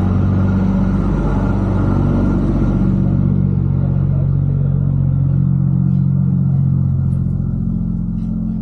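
A vehicle engine running at a steady idle, an even low hum that does not change in pitch.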